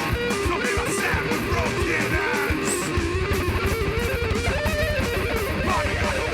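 Live heavy metal band playing an instrumental passage: distorted electric guitars and bass over fast, steady drumming, with a guitar line bending in pitch above.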